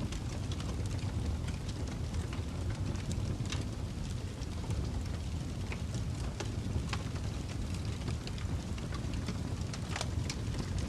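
Wood fire burning in a fireplace: a steady low rumble with scattered crackles and pops, the sharpest pop about ten seconds in.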